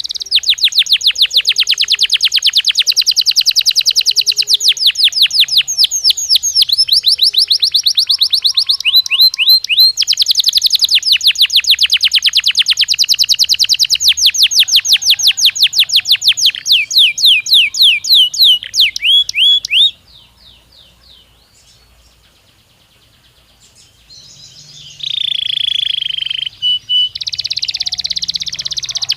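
Belgian canary singing long, rapid trills of fast repeated high notes. The song stops for a few seconds about two-thirds of the way through, then starts again with a falling note before the trills return.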